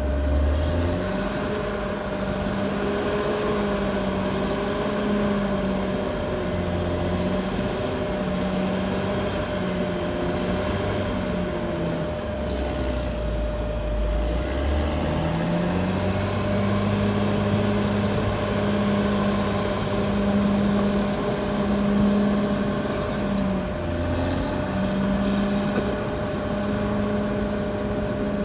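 Caterpillar D6R XL bulldozer's diesel engine working under load, its note sagging and picking back up several times, with a steady high whine above it.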